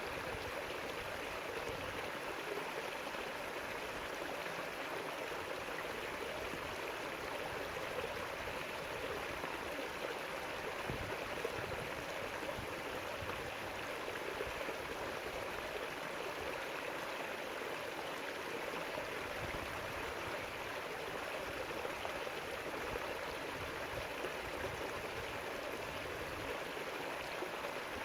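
A river flowing over rocks: steady rushing and gurgling of running water, with no change in level.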